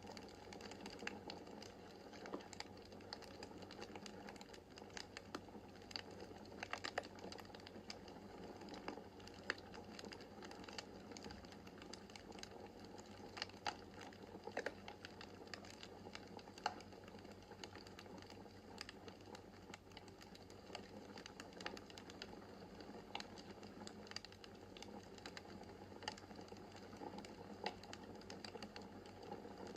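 Wood fire crackling in a fireplace: frequent small, sharp pops and snaps at an irregular pace over a soft, steady hiss of the flames.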